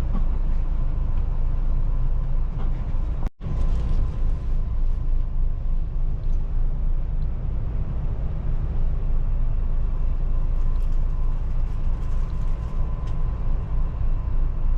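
Steady low rumble of vehicle noise, with a brief cut to silence about three seconds in.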